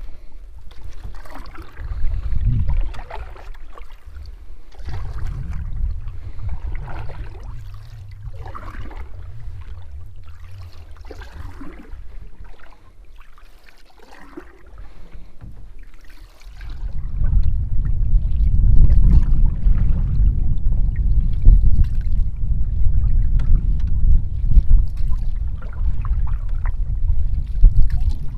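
Canoe paddle strokes swishing through the water every second or two, over wind buffeting the microphone that grows much stronger about two-thirds of the way in.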